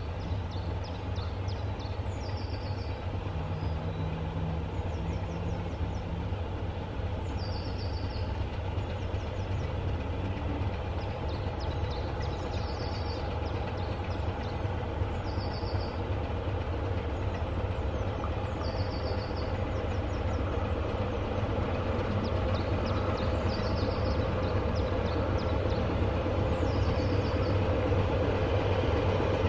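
A heritage railway train running, a steady low rumble that slowly grows louder, with short high chirps repeating every couple of seconds over it.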